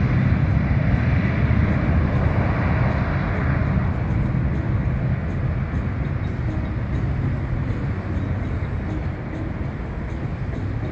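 Boeing 767-300 jet engines at takeoff power, a deep rumble that slowly fades as the aircraft climbs away.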